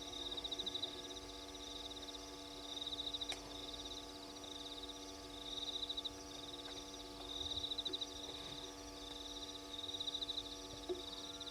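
Night insects, cricket-like, trilling in short rapid-pulsed bursts every two to three seconds, over a steady low hum.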